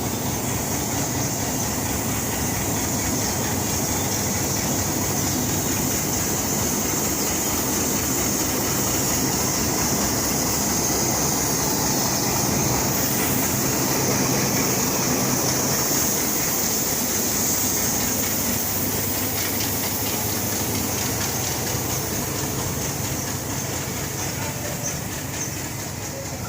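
Passenger express train pulling out of a station: steady rumble and rail noise of the locomotive and coaches rolling, with a steady high-pitched hiss over it. It builds slightly towards the middle and eases off near the end.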